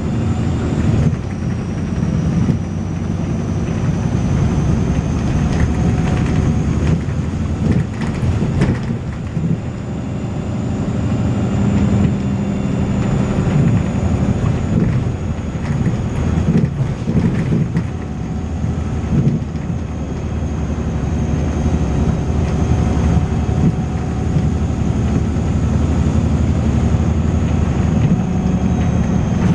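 Volvo B6LE bus's diesel engine and ZF gearbox running under way, a loud rough rumble that swells and eases, with a steady high-pitched whine over it, a strange noise the bus is known to make.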